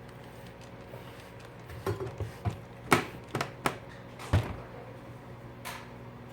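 A handful of sharp clicks and knocks in a cluster from about two to four and a half seconds in, over a steady low hum: tools or parts being handled and set down on a repair bench.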